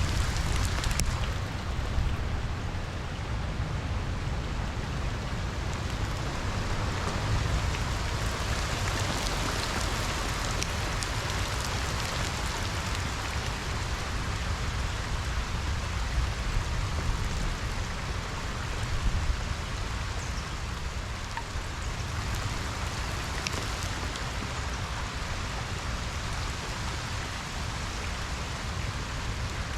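Steady rain falling on a pond's surface, a constant hiss of many small drops, with a steady low rumble underneath.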